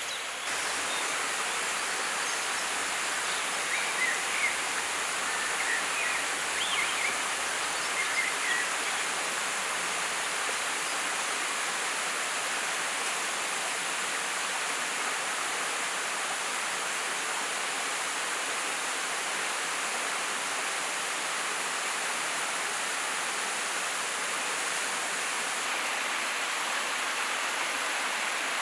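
Steady rushing of river water, an even hiss with no break. A few short, faint high chirps come through it in the first third.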